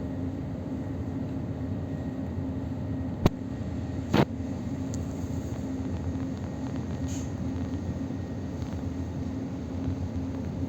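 Suburban electric train running between stations, heard from inside the car: a steady rumble with a low hum. A few seconds in come two sharp knocks about a second apart.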